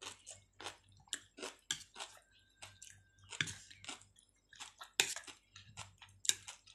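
A person chewing a mouthful of chicken and potato stewed in coconut milk, close to the microphone, in a run of short, irregular sounds about two a second.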